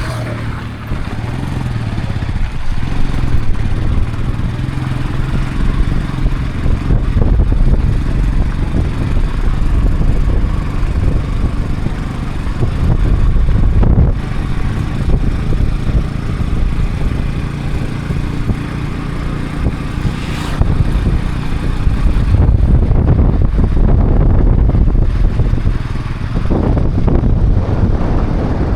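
A motor vehicle's engine running with heavy wind buffeting the microphone, as from a moving vehicle; the engine's pitch wavers in the first few seconds.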